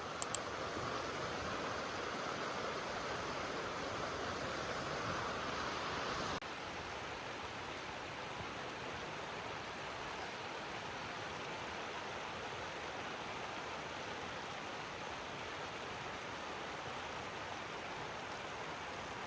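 Steady rain falling, an even hiss with no single drops standing out; about six seconds in it drops slightly in level and changes character, as at a cut.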